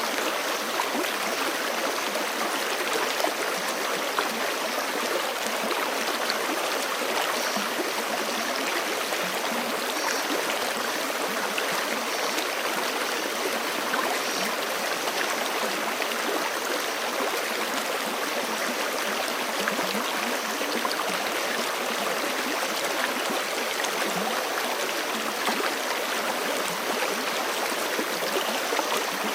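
Forest stream flowing steadily over rocks: a constant rushing and splashing of water with no pauses or changes.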